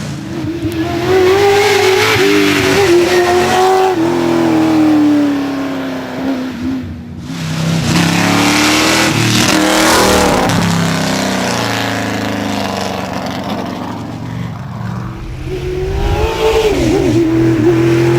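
American V8 race car engine under hard acceleration, its revs climbing and dropping several times as it shifts and lifts off, with two brief dips in the sound about seven and fifteen seconds in.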